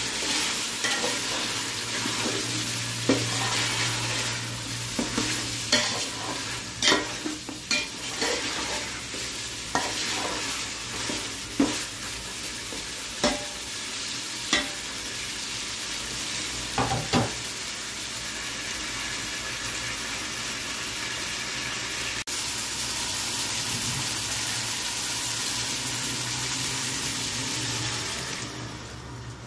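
Mutton and chopped tomatoes sizzling in oil in an aluminium pot while a metal spatula stirs them, scraping and knocking against the pot many times in the first half. The sizzle then runs steady and dies down near the end as water is poured in.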